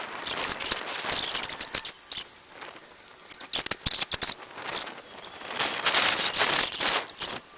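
Dry leaves crunching and crackling underfoot, in about three bursts of crisp crackles with short quieter gaps between.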